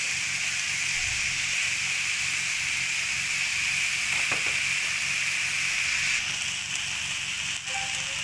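Chicken, onion and vegetable mixture frying in a pan, a steady sizzling hiss as chopped green capsicum is added; the sizzle eases a little about six seconds in.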